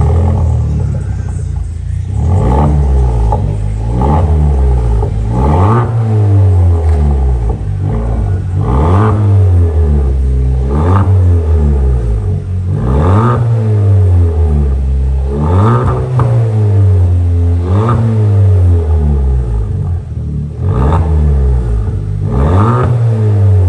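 Skoda Octavia's engine and exhaust revved repeatedly while standing, about ten blips a couple of seconds apart, each rising and falling back toward idle.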